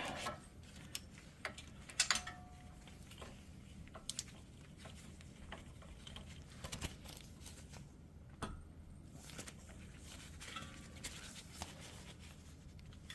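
Scattered light metallic clicks and taps of hand tools working on a wheel hub's bearing bolts, with a sharper click and a brief ring about two seconds in.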